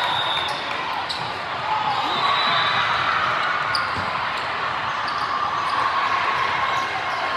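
Busy indoor sports hall during ball play: a steady wash of crowd chatter echoing in the hall, with balls bouncing and being struck, including one sharp hit about four seconds in.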